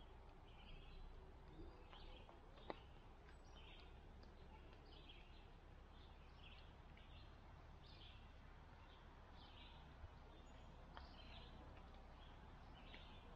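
Faint outdoor ambience: scattered short, high bird chirps, a few every second or so, over a steady low rumble.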